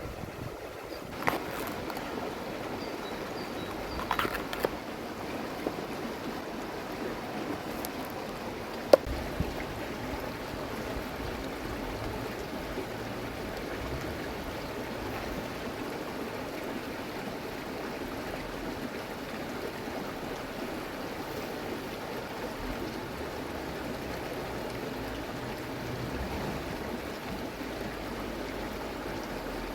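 River water flowing steadily, with a few short sharp knocks in the first ten seconds.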